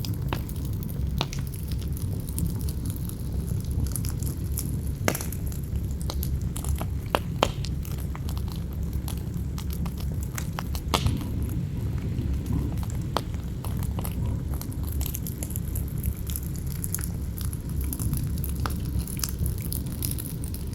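Campfire crackling, with sharp pops at irregular intervals, over a steady low rush of wind.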